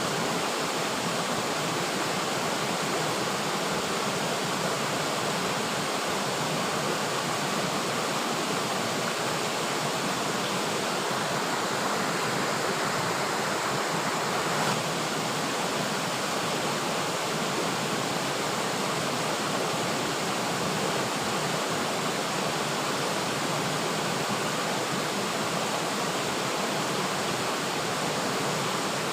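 River water flowing and rushing in a steady, even wash of sound, with no change throughout.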